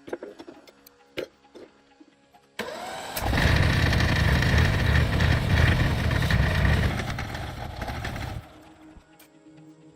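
A rebuilt tractor engine starting up, with a few sharp clicks at first, then catching about three seconds in and running loudly. The sound drops away sharply about eight seconds in.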